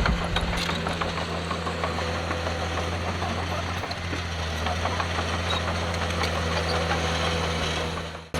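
Heavy diesel engine of earthmoving machinery running steadily with a low hum, with scattered clicks and clatter over it; the sound fades out just before the end.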